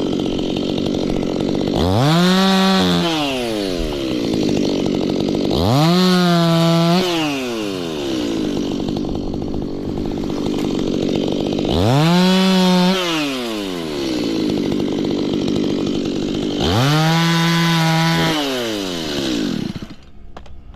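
Stihl two-stroke chainsaw revved to full throttle four times, each rev held a second or two then falling back to a lower speed between, before the saw cuts off near the end.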